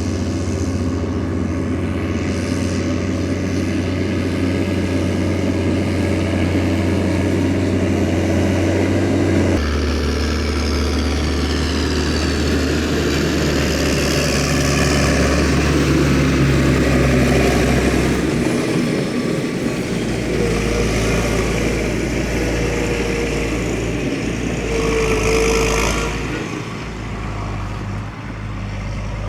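Diesel farm machinery running steadily, tractor and silage-machine engines. The engine sound changes abruptly about a third of the way in and again twice later, with a faint whine over it in the later part.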